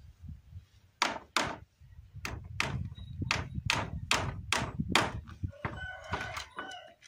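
Hammer driving nails into wooden fence boards: about ten sharp blows, two or three a second, with a short animal call near the end.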